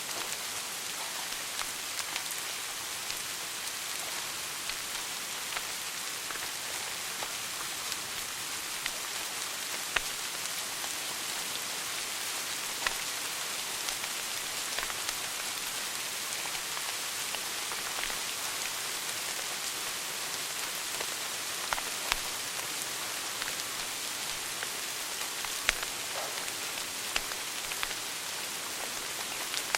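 Wood fire burning in a fireplace: a steady hiss with scattered sharp crackles and pops, a few of them louder than the rest.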